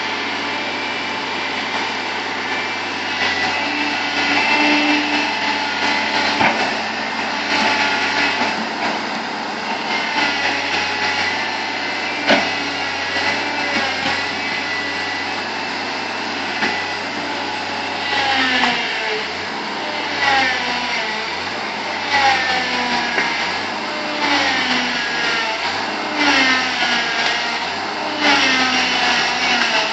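Bulldozer's diesel engine running under load, steady at first; from about 18 s in its pitch rises and falls repeatedly about every two seconds as the load swings. A single sharp knock about 12 seconds in.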